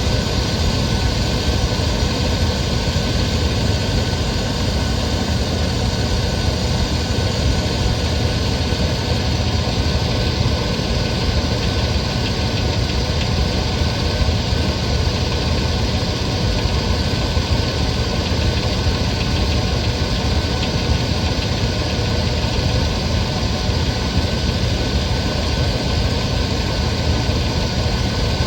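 1997 GMC K1500's 5.7L V8 engine idling steadily, with an intermittent knock that starts about thirteen seconds in and then fades away; its cause is a mystery to the owner.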